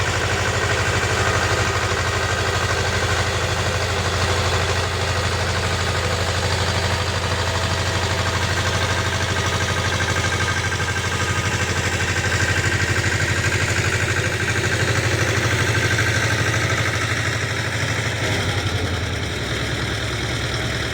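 Tractor engine running steadily under load while rotary-tilling soil. Its note shifts slightly near the end.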